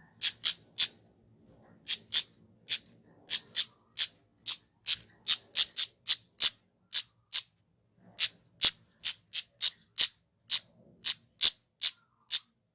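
Kemade (flowerpecker) calling: a long run of short, sharp, high-pitched chip notes, about two a second, some coming in quick pairs or threes, with a brief gap near the middle.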